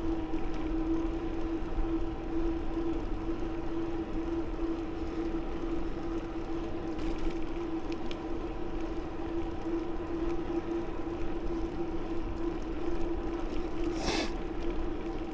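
Riding noise from a bicycle moving along a paved path: low wind rumble on the microphone under a steady, unchanging hum, with a brief rushing burst near the end.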